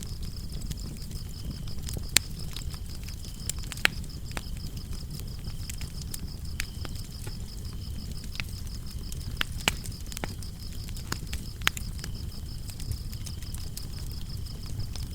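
Wood fire crackling, with sharp pops every second or so over a low rumble of flames, while crickets chirp in a steady high pulsing trill, joined now and then by a second, lower cricket.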